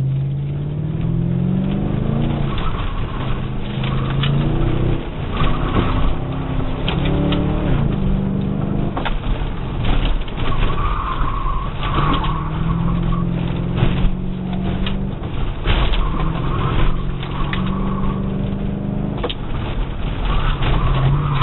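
Ford Thunderbird's engine heard from inside the cabin, revving up and easing off again and again as the car is driven hard through an autocross course, with the tires squealing in short bursts through the turns.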